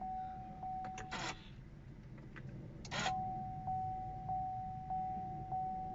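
The 2012 Chevrolet Cruze 2.0 diesel engine idling with a low rumble after starting, a sign that the no-start fault is fixed. Over it an electronic warning tone beeps steadily, pulsing about every two-thirds of a second. The tone breaks off twice for short, noisy clicking bursts, about a second in and about three seconds in.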